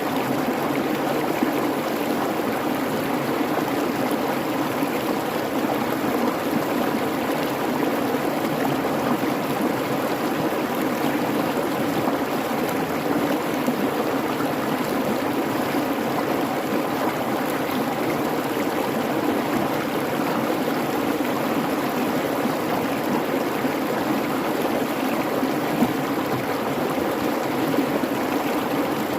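A creek babbling and rushing steadily over its bed, an even, unbroken water sound.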